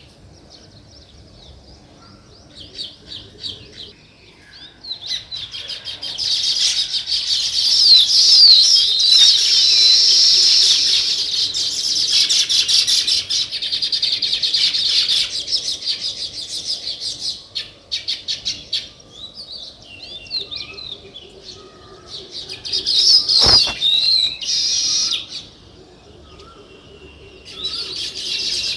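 A flock of sparrows chirping, a busy overlapping chorus of short high chirps that comes and goes: sparse at first, dense through the middle, thinning out, then swelling again twice.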